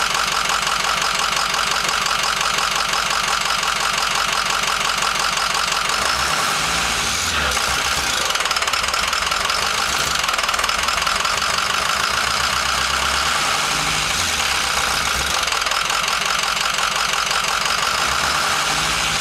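Ford F-250 diesel engine idling with a steady, fast clatter. This is the rough idle the owner is trying to diagnose.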